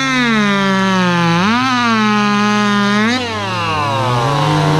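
Two-stroke racing chainsaw under full throttle, cutting through a log. Its engine note sags as it labours in each cut, then jumps back up as it breaks through, three times.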